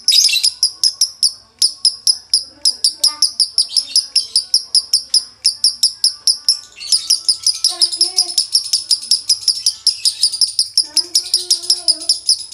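Male lovebird singing in the 'konslet' style with a dry tone ('nada kering'): a long, fast run of high, sharp chattering notes, about six a second, with a short break near the middle.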